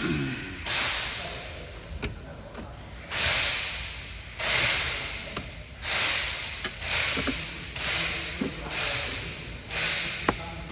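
Repeated short hissing blasts of pressurised spray, about nine in ten seconds, each starting sharply and fading over about a second, with a few light knocks between them.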